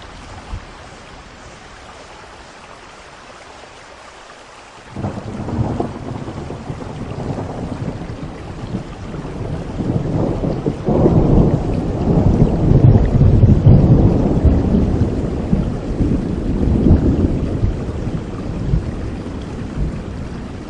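Steady rain, then about five seconds in a roll of thunder breaks in suddenly. It rumbles and builds to its loudest around the middle, then slowly fades back under the rain.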